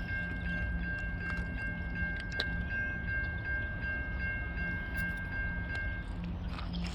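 Railroad grade-crossing bell ringing in a quick, even rhythm over a low rumble, cutting off about six seconds in.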